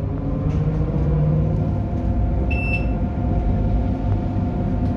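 Tram running with a steady rumble and several steady whining tones, the weird noise the tram is making. One short high electronic beep sounds about two and a half seconds in.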